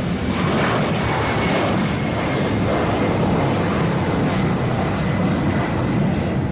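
Boeing 767 jet engines running: a steady, loud rushing noise with a faint high whine that slides slightly lower in the first few seconds.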